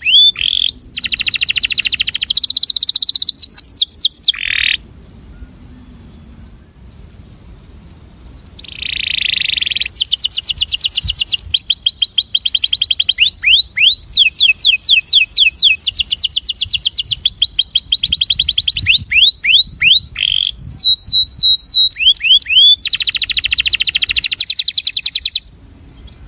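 Male canary singing its courtship song: fast trills of repeated downward-sweeping notes alternating with buzzy rolls. The song breaks off for about four seconds after the first few seconds, then resumes, and stops shortly before the end. A steady high hiss runs underneath.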